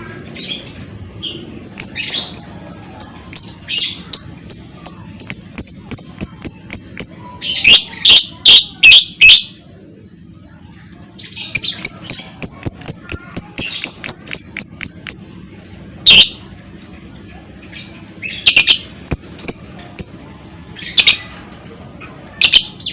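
Lovebird chattering: long runs of rapid, high, sharp notes at about four a second, broken by louder harsh bursts and one short pause midway. This is the fast repeated chatter that lovebird keepers call 'ngekek'.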